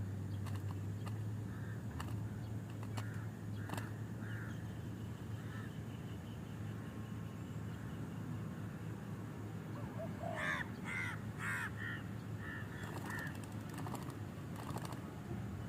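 A bird giving a quick run of about seven harsh, crow-like calls starting about ten seconds in, over a steady low hum, with a few sharp clicks earlier on.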